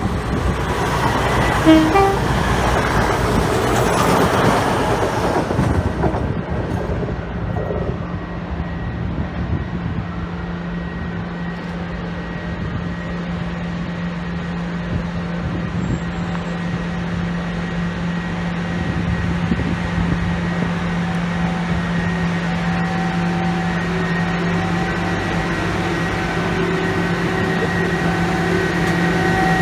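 A train running past with a loud rushing noise for the first few seconds, then a steady droning hum of a train's engine or traction equipment, holding one pitch.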